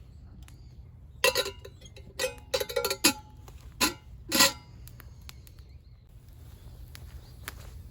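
Metal camp cookware knocking and clinking: a quick cluster of ringing strikes in the first half, then only a faint steady hiss.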